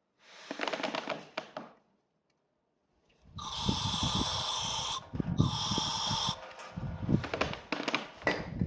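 Two hissing spray bursts, the first about one and a half seconds and the second about a second, from cleaning the brake caliper slide pins. Scraping and clicking of metal parts being handled come before and after.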